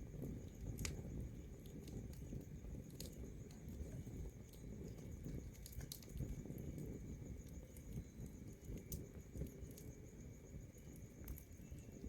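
Wood fire burning, a low steady rustle of flames with a sharp crackling pop every two or three seconds.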